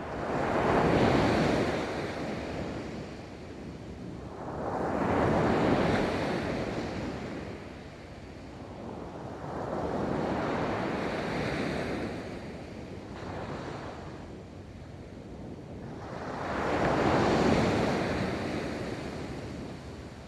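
Ocean waves breaking and washing up on a beach: four surges of surf that swell and fade, one every four to seven seconds.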